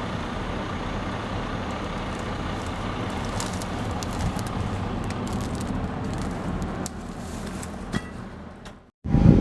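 Heavy diesel machinery engine running steadily under load, with a few scattered clicks and knocks. The sound fades out near the end, then cuts abruptly to a louder engine run.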